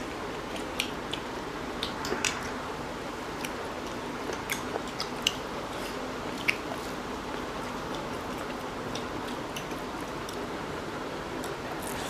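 Two people eating rice and chicken curry with their fingers: scattered wet chewing and mouth clicks, with fingers squishing the rice, over a steady hiss.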